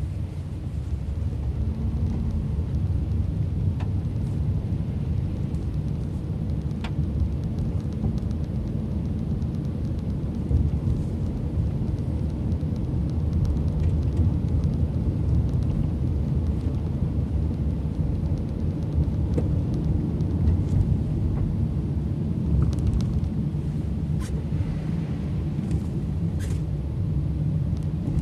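Steady low rumble of a moving car's engine and tyres, heard from inside the car, with a few faint clicks near the end.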